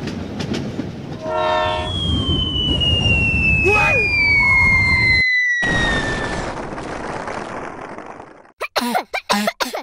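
Train sound effect: steady rumbling rail noise with a brief horn blast about a second and a half in, and a long whistle sliding slowly down in pitch over the next few seconds. The rumble fades out, and a run of short clipped sounds follows near the end.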